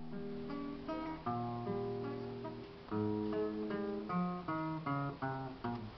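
Acoustic guitar playing an instrumental introduction: picked notes and chords that ring out and change every half second or so.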